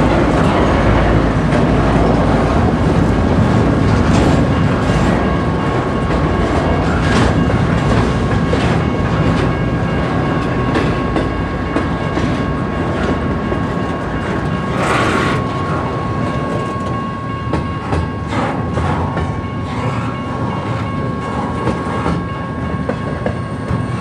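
Cars of an intermodal freight train rolling past, the wheels clacking over rail joints in irregular clicks above a steady rolling rumble, with a faint steady ringing tone. A brief louder hiss comes about 15 seconds in, and the sound eases off a little in the second half.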